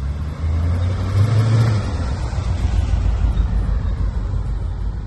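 1985 Aston Martin V8's 5.3-litre V8 engine as the car drives close past; the engine note climbs briefly about a second in.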